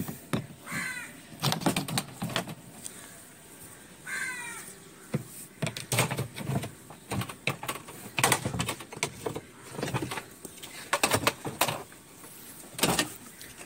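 Repeated knocks and clatter of tools and parts being handled while a washing machine is taken apart, with a bird calling twice in the background, about one second and about four seconds in.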